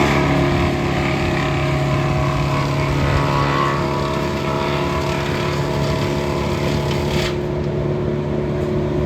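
Morbark wood chipper running steadily with a constant engine drone. A rushing hiss over the engine stops abruptly about seven seconds in while the engine runs on.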